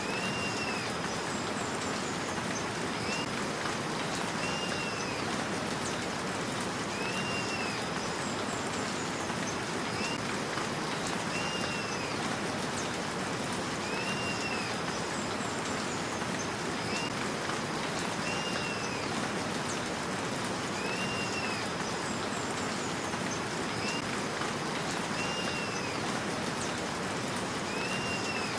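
Steady rain hiss, with a short call that rises and falls recurring every second and a half to two seconds, and fainter high chirps.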